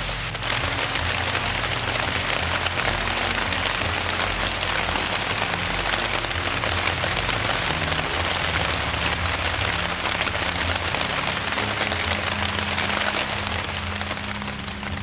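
Steady rain falling, an even patter with soft background music held low beneath it. The rain sound eases off near the end.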